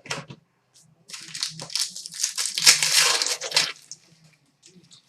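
Trading card packaging crinkling and crumpling in the hands for nearly three seconds, starting about a second in, with a few light clicks around it.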